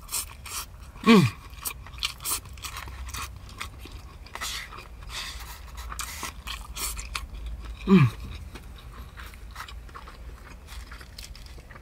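A person chewing and biting food, with frequent small crunches and mouth clicks. Twice, about a second in and again about eight seconds in, he gives a short hum that falls in pitch.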